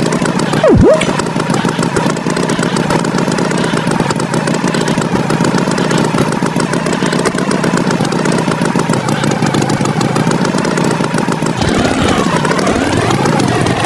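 An engine running steadily, with a quick swooping sound effect about a second in and some gliding tones near the end.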